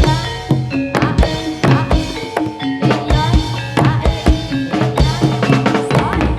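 Live music driven by fast ketipung hand-drum strokes, several strikes a second, over a steady bass line and sustained melodic notes.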